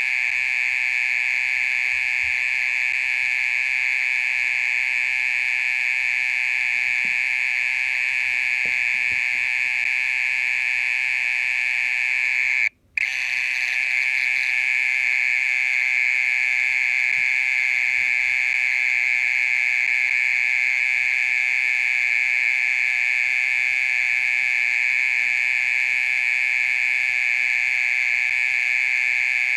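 Mole cricket calling: a loud, steady, unbroken buzzing trill, stopping for a split second about thirteen seconds in and then carrying on.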